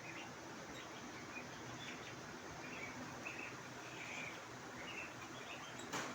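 Faint, short bird chirps scattered over a steady background hiss, with one sharp click near the end.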